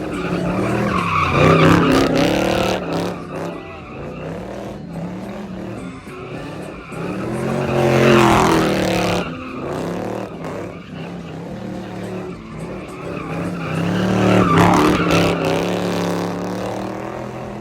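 Car engine revving hard with tyres squealing and skidding, as in a burnout or doughnuts. It swells loud three times, about six seconds apart.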